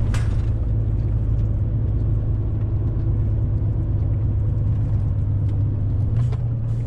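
Semi-truck's diesel engine running steadily under heavy load on an uphill climb, its revs sagging as it bogs down. The hum wavers briefly about six seconds in, and there is a short click at the very start.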